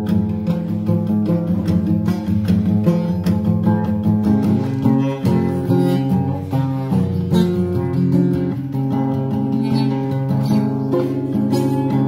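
Instrumental music led by strummed acoustic guitar, with notes changing steadily throughout.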